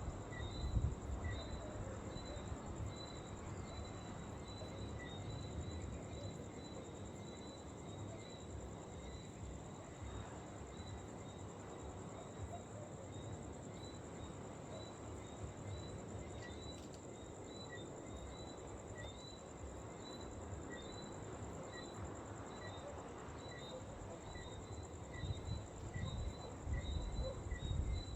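Insects chirping: a steady high trill with a slower repeated chirp over it, and wind rumbling on the microphone near the start and again near the end.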